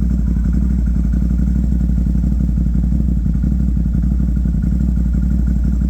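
CFMOTO off-road vehicle engine running steadily at an even speed.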